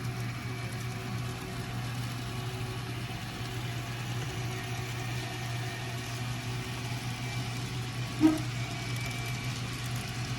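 N scale model trains running along the layout's mainline: a steady low hum, with one brief sharp sound about eight seconds in.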